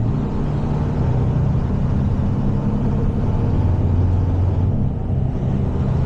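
Heavy tow truck's diesel engine running steadily on the road, with a constant low hum and road noise.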